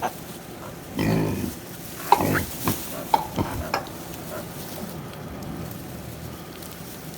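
Potbelly pigs, a sow and her newborn piglets, giving a few short grunts and squeaks in the first few seconds, over a steady rustle like hay being stirred.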